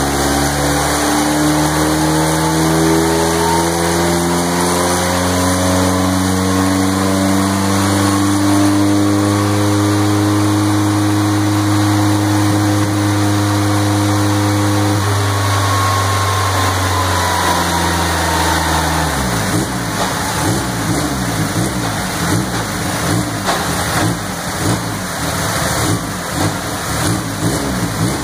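Turbocharged Volkswagen Polo engine at full throttle on a chassis dynamometer, its note climbing steadily for about fifteen seconds and then falling away. About two-thirds in the steady note breaks up into a rough, uneven sound: the engine letting go from too much boost.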